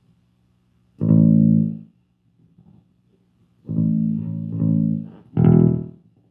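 Fender Jazz Bass played through an MXR M175 digital delay into an Orange Crush bass amp: a few short plucked notes, one about a second in, two in quick succession around four seconds, and one near the end. A low steady amp hum sits between the notes.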